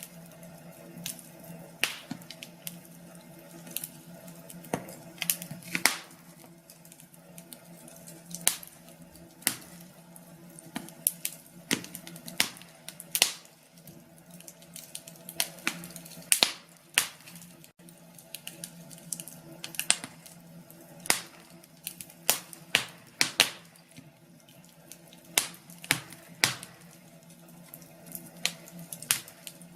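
Wood fire crackling, with irregular sharp pops and snaps over a faint low steady hum.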